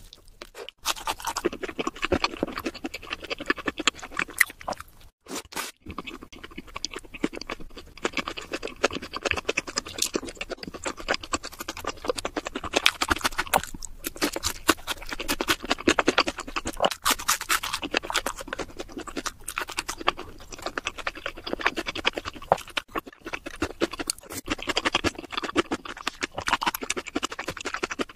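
Close-miked chewing of crispy fried food: dense, irregular crunching and crackling, with brief pauses about five seconds in and again around 23 seconds.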